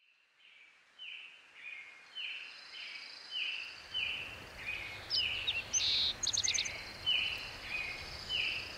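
Birdsong fading in from silence: a bird repeating a short falling call about twice a second, with a quick run of high notes from another bird about six seconds in. A low rumble joins about three and a half seconds in.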